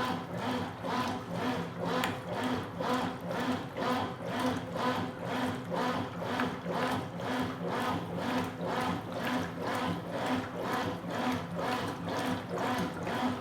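Consul Super Cargo 8 kg (CWL08C) top-loading washing machine agitating a load of towels, its agitator swishing the water back and forth in an even rhythm of about two strokes a second.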